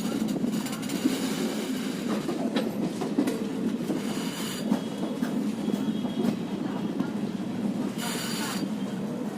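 Passenger train running along the track, heard from on board: a steady rumble of wheels on rail with scattered clicks over the rail joints. A short burst of hiss comes about eight seconds in.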